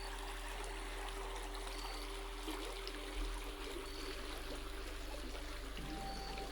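Creek water flowing and trickling over rocks, a steady rushing.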